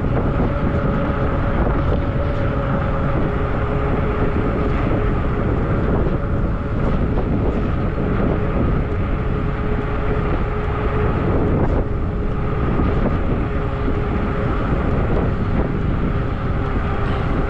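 Steady riding noise from a Zota Zephyr 20-inch fat-tire e-bike under way: wind rushing over the microphone and tyre noise, with a faint steady tone.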